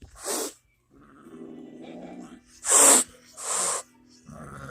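A cat growling low and long, broken by three sharp hisses: a cat threatening a newcomer kitten.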